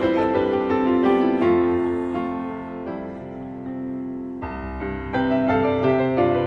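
Piano playing a slow ballad interlude between sung lines: held chords, with a new low chord struck about four and a half seconds in.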